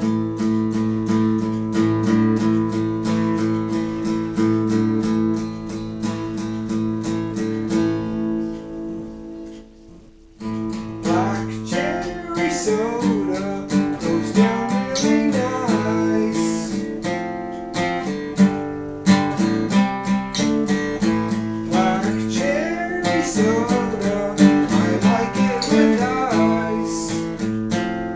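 Guitar played: strummed chords ring from the start and fade about nine seconds in, then it comes back in with picked melody notes moving over the chords.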